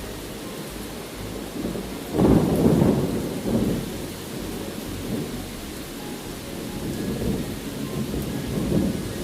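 Steady rain with low, rolling rumbles of thunder. The loudest rumble swells up about two seconds in, and weaker ones rise and fall after it.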